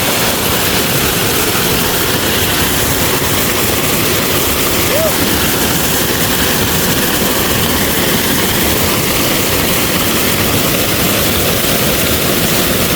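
Waterfall with steady, loud rushing water.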